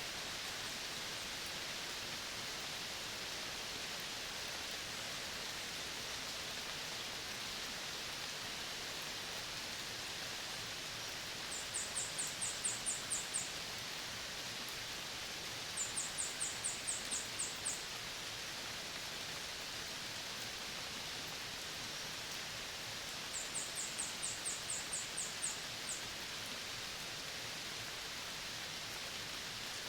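Tropical forest ambience: a steady high hiss, broken three times by a short run of rapid, very high-pitched ticks, about five a second and eight to ten in a run, from an animal calling.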